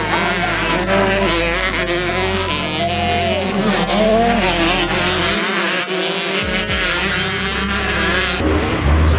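Several dirt-bike engines revving and racing together, their pitch rising and falling as the riders work the throttles.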